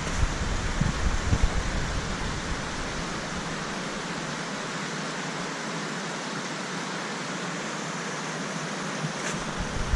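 Waterfall rushing as a steady, even roar of water, with wind buffeting the microphone in the first few seconds.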